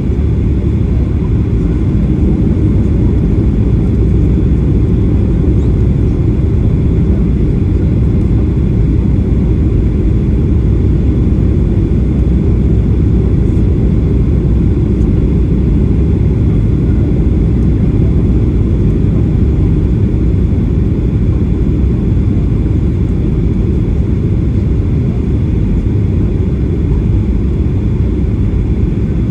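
Steady low rumble inside the cabin of a Boeing 737-800, the noise of its CFM56-7B turbofan engines and airflow, heard from a window seat behind the wing.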